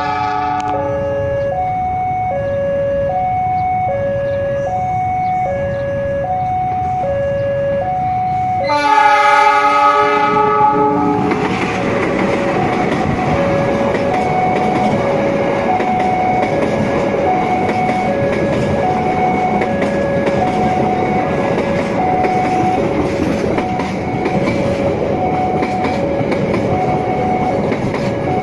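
Railway level-crossing warning alarm ringing in a steady two-tone alternation. About nine seconds in, a diesel locomotive horn sounds for about two seconds, followed by the continuous noise of a passenger train running past close by, with the alarm still ringing over it.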